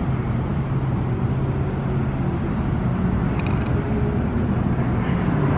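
Car engine running at a steady, even speed with road noise, as at a light cruise; no revving.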